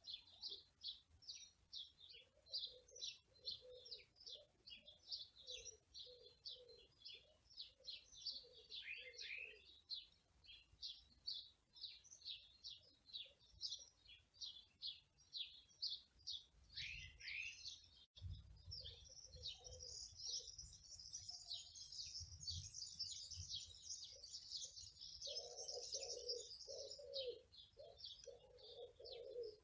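Small birds chirping in quick, repeated high notes, swelling into a denser chorus in the second half, with a lower repeated call in series, strongest near the end.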